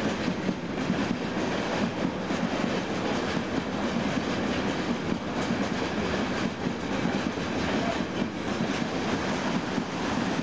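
Freight train of tank wagons rolling past, a steady rumble of wheels on rail with repeated faint clacks as the wheels run over the rail joints.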